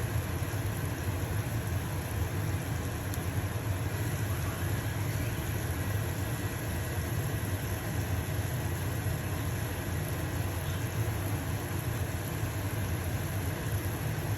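Stove-top range hood fan running with a steady low hum, over the even sizzle of a pancake frying in a pan.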